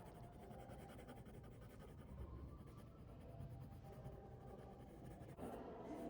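Faint scratching of a pencil drawing on paper in quick, short strokes.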